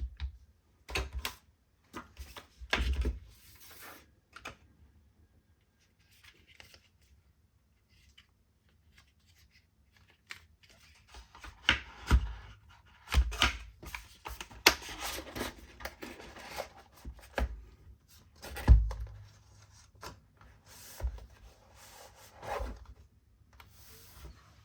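Scattered clicks, knocks and rustling from handling a Wera Tool-Check Plus bit set and its case, with a sharp knock about three-quarters of the way through.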